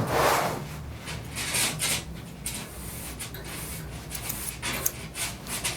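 Grooming tools working a knot out of a dog's matted facial hair: a run of short, repeated rasping strokes.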